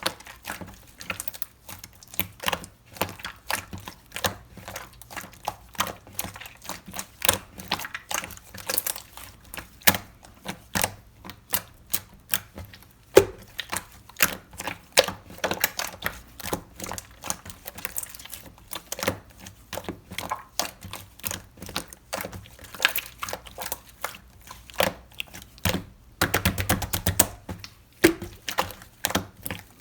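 Slime being handled and squeezed by hand, giving an irregular stream of sharp clicky pops and crackles, with a quick dense run of crackling about 26 seconds in.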